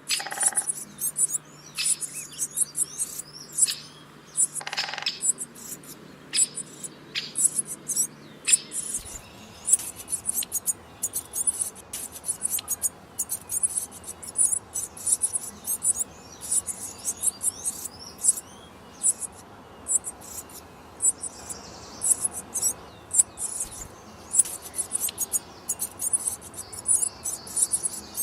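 Small birds, nestlings in the nest, cheeping: thin, high-pitched chirps repeated in quick runs, with a few sharp clicks in the first several seconds.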